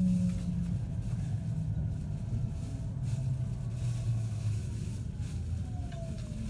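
Running noise of a 521-series electric train heard from inside the car: a steady low rumble of wheels on rail with a faint whine slowly falling in pitch, and a single knock near the end.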